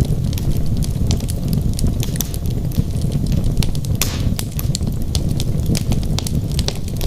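Wood logs burning in a fireplace: a steady low rumble of flames with frequent sharp crackles and pops from the wood, and a brief hiss about four seconds in.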